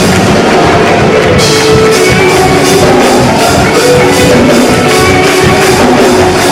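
Loud band music with a drum kit keeping a steady beat under held chords; the cymbals come in brighter about a second and a half in.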